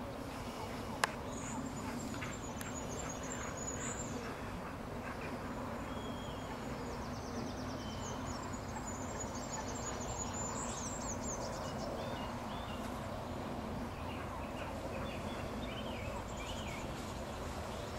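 Birds singing: several high trills and chirps, over a steady low rumble, with a single sharp click about a second in.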